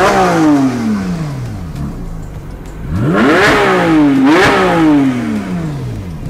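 Porsche 992 GT3's 4.0-litre naturally aspirated flat-six, breathing through an Akrapovic exhaust, being revved hard. The first rev falls away at the start. About three seconds in it is revved again with two quick blips, then falls back toward idle near the end.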